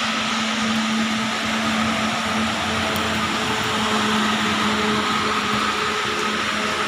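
Heavy rain falling in a steady, unbroken hiss, with a faint steady hum underneath.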